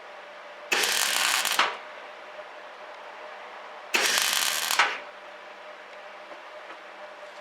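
Semi-automatic MIG welder arc crackling in two short bursts of about a second each, stitch-welding a steel patch plate onto a Suzuki Jimny JB23 bulkhead. Each burst starts and stops abruptly, with a faint steady hum in between.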